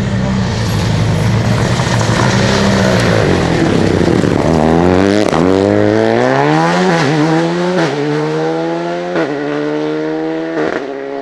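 Rally car engine accelerating hard through a series of upshifts, its pitch climbing and dropping back at each gear change, about four times in the second half. Before that, a few seconds of engine and tyre noise without a clear pitch.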